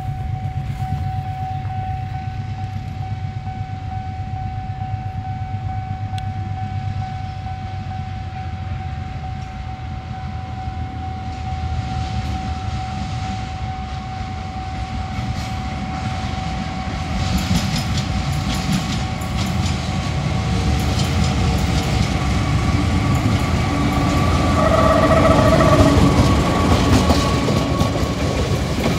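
Diesel-hauled intercity passenger train approaching on the track: a steady low rumble with a faint steady whine over it, growing louder over the last ten seconds as a stream of sharp wheel clicks on the rails sets in.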